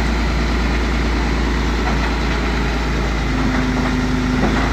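Heavy diesel engine of an earthmoving machine running steadily at low revs, a dense even rumble. A steady higher tone joins for about a second near the end.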